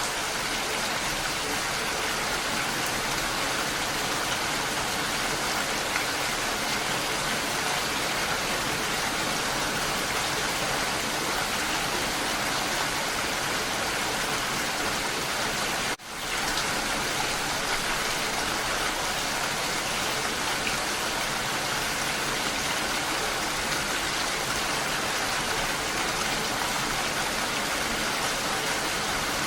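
Steady rain falling, an even wash of noise with no pauses. About halfway through it drops out for an instant and swells straight back in.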